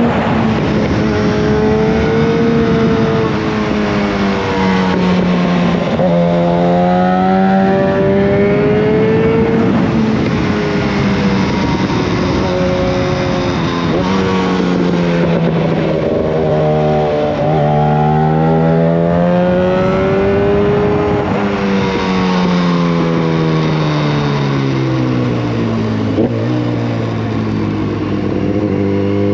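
Yamaha FZ1 Fazer's inline-four engine through a Mivv GP exhaust with the dB killer removed. It is ridden hard: its pitch climbs, drops and climbs again over and over as it accelerates, shifts and backs off, then settles to a low steady note near the end.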